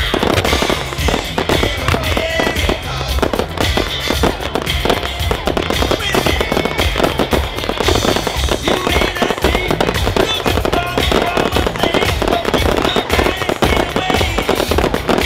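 Fireworks going off in quick succession, many sharp reports a second in a dense barrage, with music playing throughout.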